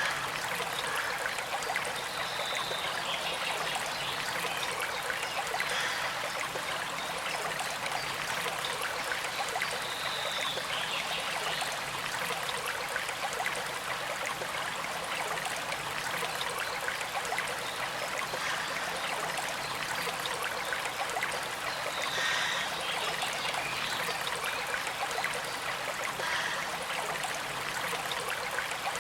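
Small creek flowing and trickling steadily, a constant, even rush of water.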